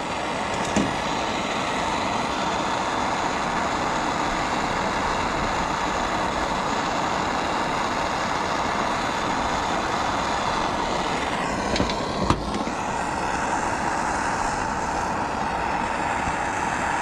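Gas soldering torch burning with a steady hiss as it heats a shower-valve fitting for soldering. A couple of short clicks come about twelve seconds in.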